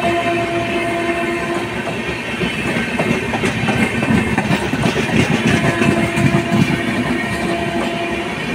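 Indian Railways LHB passenger coaches rolling past at speed: a dense rumble and clatter of wheels on the rails. A steady tone sounds over it for the first second and a half and again from about five and a half seconds in.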